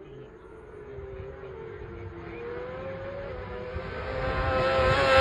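Racing motorcycle at high revs approaching along the road course, its engine note growing steadily louder; the pitch rises and wavers about three seconds in, then holds high as the bike nears.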